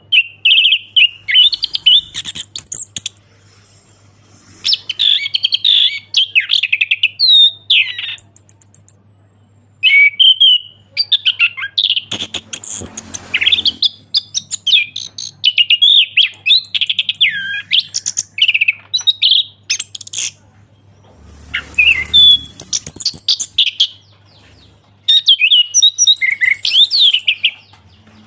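Orange-headed thrush singing loudly in bouts of fast, varied whistled and chattering phrases. The bouts last a few seconds each, with short pauses between them.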